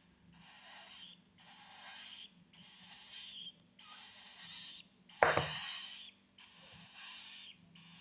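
Cockatiel chicks giving raspy food-begging calls, a breathy burst about once a second. A sharp knock about five seconds in.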